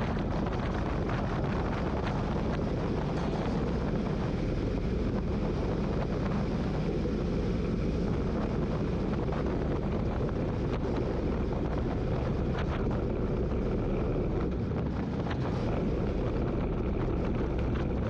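Motorcycle riding at road speed: steady engine and road noise with wind blowing across the microphone.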